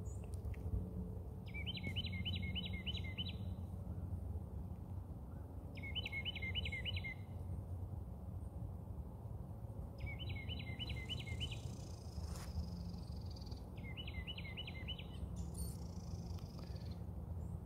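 A songbird singing the same short phrase of about six quick down-slurred notes over and over, roughly every four seconds, over a steady low rumble.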